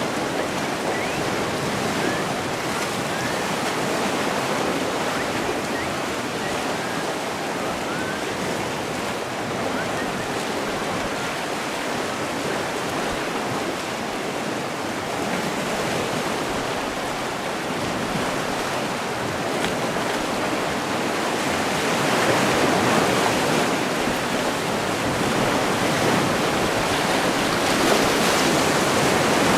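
Sea surf: waves washing in continuously, swelling louder twice near the end.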